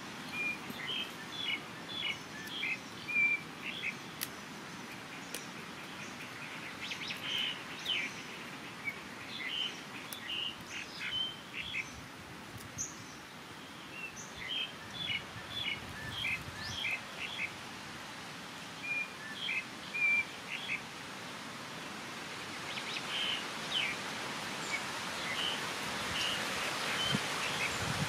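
Bird calls: short high chirps in repeated bouts with pauses between, over a steady background hiss that grows louder near the end.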